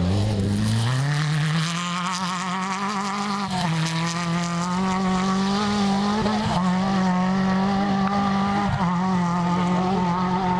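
Off-road rally car's engine accelerating hard. Its pitch climbs over the first two seconds, then holds at high revs with a short drop about three and a half seconds in and brief lifts later on.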